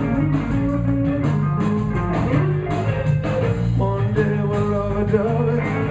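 Live blues band playing between sung lines: guitar over bass and a steady beat.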